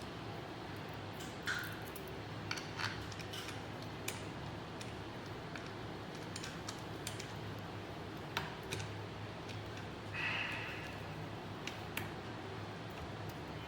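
Scattered light clicks and taps of small parts and tools being handled while a CNC 3020 machine kit is put together, with a short scrape about ten seconds in, over a steady low hum.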